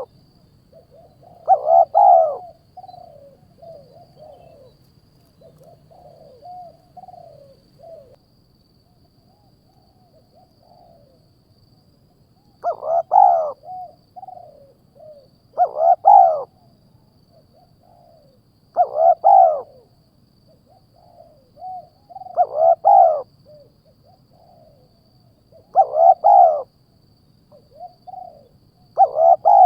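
A bird calling over and over: loud calls of about half a second, roughly every three seconds, each followed by a few softer, shorter notes, with a pause of about ten seconds after the first two calls.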